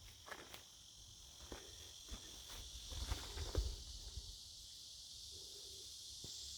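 Steady high insect chorus, like crickets, with scattered light clicks and knocks, the loudest about three and a half seconds in.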